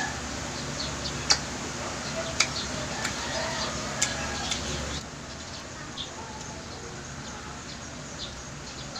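Close-up eating sounds: a person chewing fried fishballs, with a few sharp mouth clicks and smacks, the loudest in the first half, over a steady background hiss.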